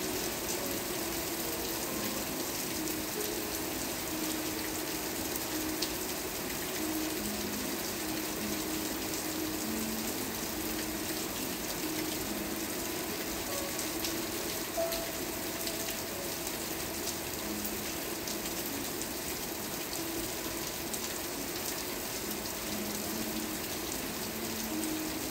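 Steady rain, a continuous even hiss with scattered fine drop ticks.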